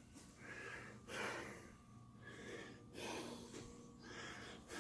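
Faint, regular breathing close to the microphone, a soft breath about once a second.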